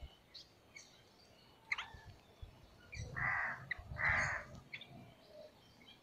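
Two loud, harsh, caw-like bird calls about a second apart, midway through, with faint short chirps of other birds before them.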